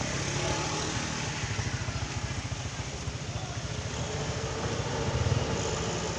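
A vehicle engine running steadily at low revs, with a fast, even low pulsing.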